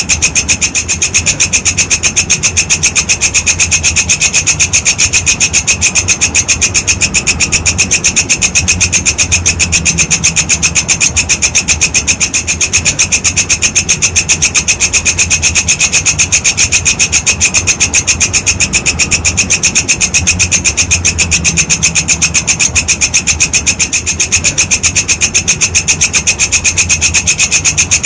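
Walang kecek insect calling: a loud, high-pitched rasping chirp made of rapid, evenly spaced pulses, kept up without a break, over a faint low hum.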